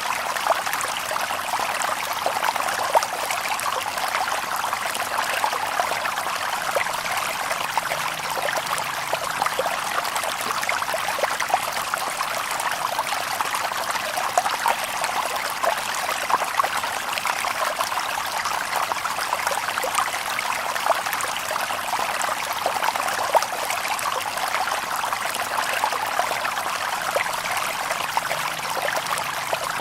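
Shallow stream babbling over stones: a steady rush of running water with many small splashes and trickles.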